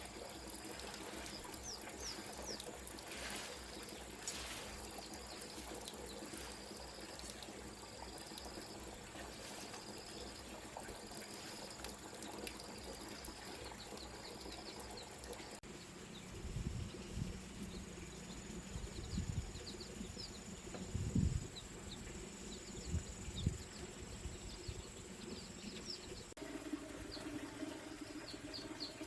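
Small birds chirping in short repeated calls over a steady background rush, with a few dull low thumps in the later part.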